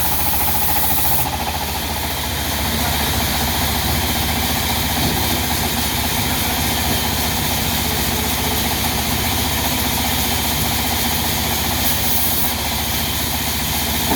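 Diesel engine of a sawmill running steadily, with a fast, even pulsing beat.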